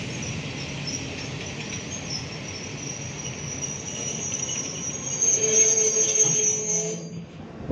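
Freight train of cement hopper wagons rolling slowly while braking to a stop, with steady high-pitched squealing from the brakes and wheels. The squeal grows louder about five seconds in, joined by a lower ringing tone, then cuts off suddenly near the end.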